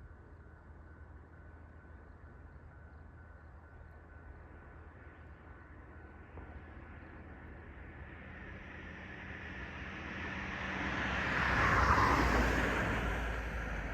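A vehicle approaching and passing close by, its noise building steadily to a peak near the end and then starting to fall away.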